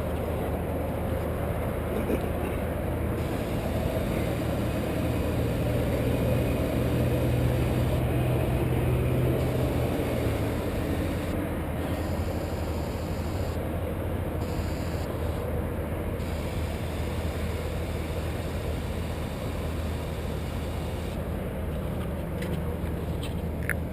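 Engine of the lift positioning the worker, running steadily with a low hum; a deeper tone is stronger from about four seconds in and drops away about ten seconds in.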